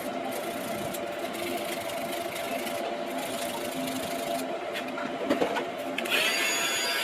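Steady machine hum with a constant mid-pitched tone. A brief higher whine joins it about six seconds in.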